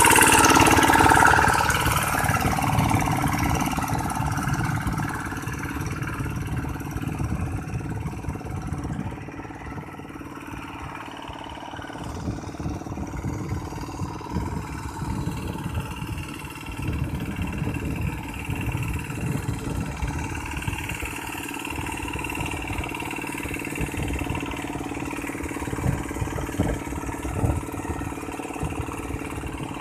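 Tractor engine running steadily as the tractor moves slowly over the land. It is loudest in the first couple of seconds, quieter for a few seconds about a third of the way in, then steady again with an uneven throb.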